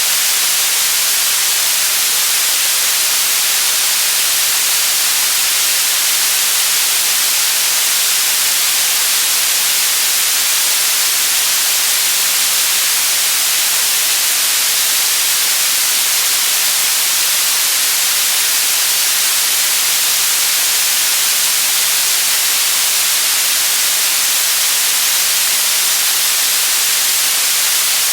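Steady white noise: an even, bright hiss that holds at one level without change.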